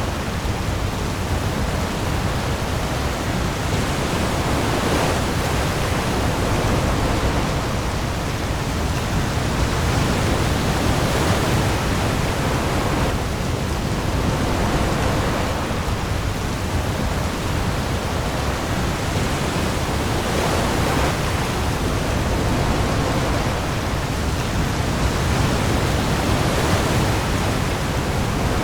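Heavy rain pouring onto the sea with storm waves, a steady dense hiss with a deep low rumble that swells gently every few seconds.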